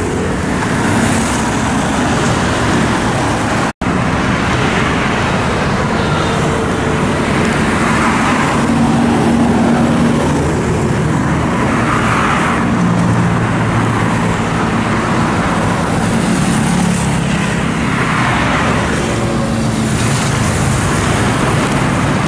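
Heavy road traffic of cars, trucks and motorcycles: a continuous din of engines and tyre noise, with vehicle after vehicle swelling loud as it passes. The sound cuts out for an instant about four seconds in.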